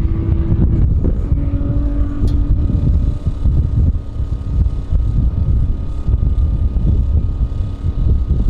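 The 1300 hp 2JZ-GTE-engined Hilux truck running at speed: a steady engine drone buried in heavy low wind rumble. The engine tone is clearest in the first couple of seconds and then sinks into the rumble.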